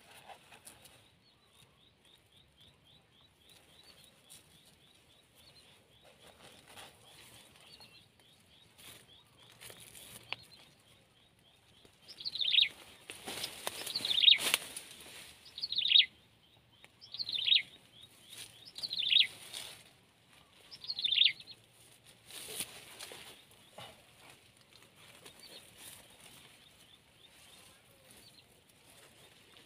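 A bird calls six times in a row, each a loud note falling in pitch, about one and a half to two seconds apart, over a faint fast trill. Crinkly rustling of a plastic bag being handled comes in now and then.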